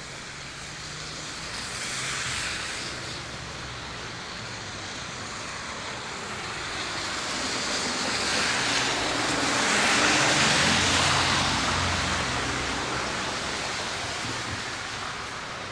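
Passing traffic on a wet, slushy street: tyre hiss that swells and fades, with a lighter pass about two seconds in and a louder vehicle with engine hum passing about ten seconds in.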